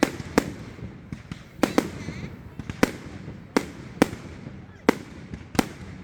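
Fireworks going off: a run of sharp bangs, about nine in six seconds at uneven intervals, some close together in pairs.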